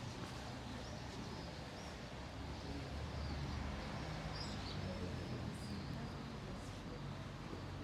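Town street ambience: a steady low traffic rumble with small birds chirping now and then, several short high chirps.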